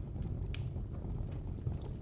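Wood fire burning in a fireplace: a low steady rumble under a few sharp crackles and pops, the clearest about half a second in.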